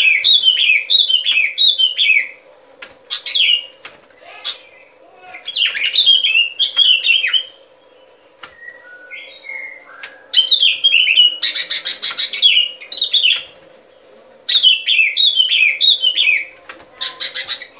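Bulbul calling: bouts of quick, bubbly, down-slurred whistled notes, repeated phrase after phrase with short pauses between. This is a lure recording of the call, played to draw the bird in for trapping. A faint steady hum runs underneath.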